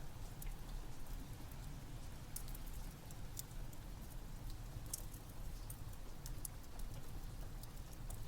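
Wood fire crackling over steady rain: a low steady rumble with many scattered sharp pops and crackles.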